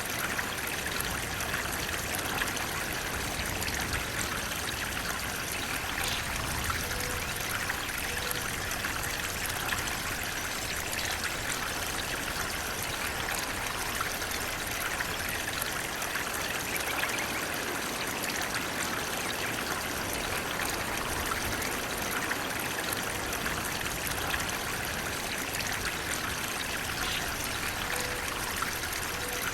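Flowing water rushing and splashing steadily, like a stream or small waterfall, with no change in level.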